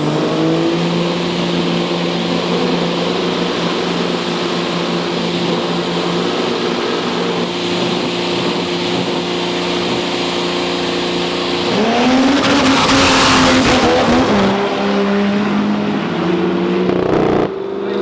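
Pro dragster engines held at steady revs on the start line, then launching about twelve seconds in: the pitch rises and a loud rush of engine and exhaust noise follows as they pull away. The sound cuts off abruptly near the end.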